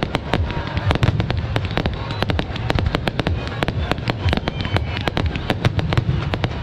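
Fireworks display going off in quick succession: many sharp bangs and crackles, several a second, over a steady low rumble.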